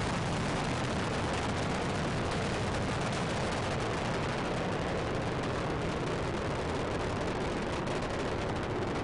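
Space shuttle launch noise: the solid rocket boosters and three main engines during ascent, a steady rumble with a fine crackle through it.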